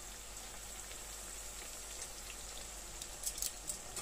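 Tempeh slices shallow-frying in hot oil in a pan: a steady sizzle, with a quick cluster of sharp crackles a little after three seconds in.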